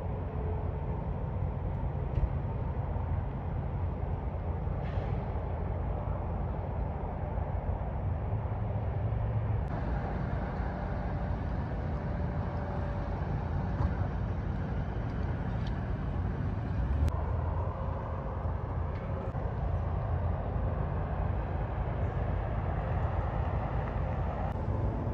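Highway traffic with heavy trucks: a steady low rumble of engines and tyres.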